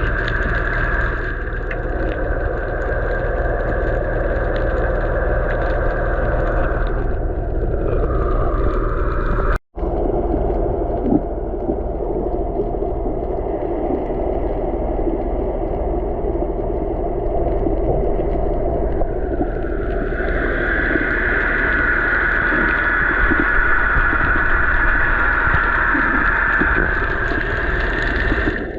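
Steady noise of a boat under way, with water rushing and a wavering whine that now and then glides down in pitch. The sound drops out briefly about ten seconds in.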